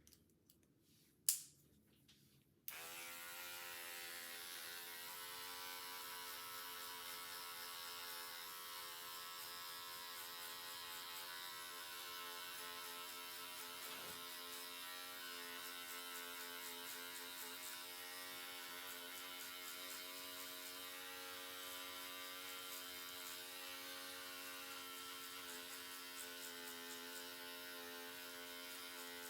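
A few soft clicks and one sharp click, then electric hair clippers switch on a few seconds in and run with a steady buzz.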